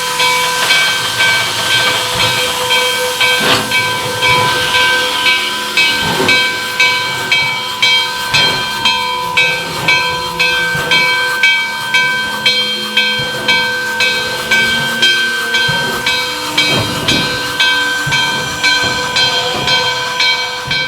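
1957 EMD SD9 locomotive's diesel prime mover running, with steady hissing, a few steady whining tones and a regular pulse about one and a half times a second.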